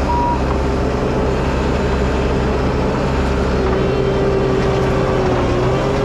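Diesel engine of heavy earthmoving equipment running steadily under load, its whine wavering slightly in pitch, with one short backup-alarm beep at the very start.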